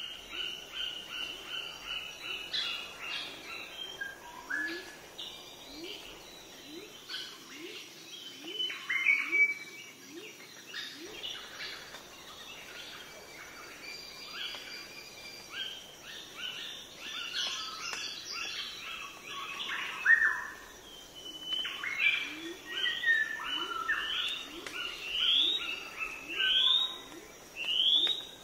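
Birds chirping and calling with many quick repeated notes, with louder calls about nine and twenty seconds in. In the last several seconds a bird gives a run of short rising whistles, about one every second or so.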